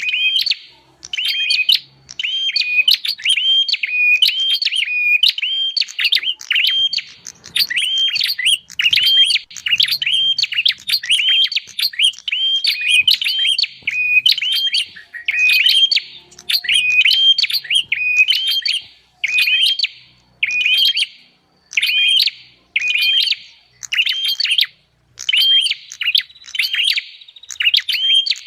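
Prenjak (prinia) calling: rapid strings of sharp, repeated chirps, several a second, broken by brief pauses. It is a recorded lure call used to draw wild prinias in.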